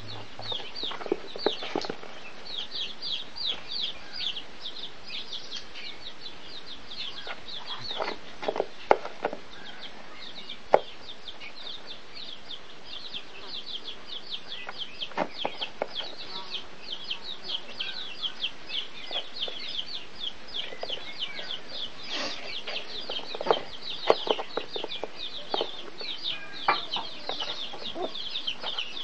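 Small bird peeping in rapid high chirps, several a second, almost without pause, with a few sharp knocks and taps scattered through.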